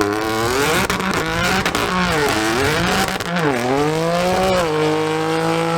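Modified car's engine revved hard, its pitch rising and falling several times, then held steady at high revs about four and a half seconds in.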